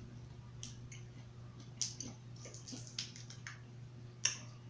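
Close-miked eating of boiled crab: about seven scattered wet clicks and crackles of shell and meat being pulled apart and chewed, the sharpest one near the end.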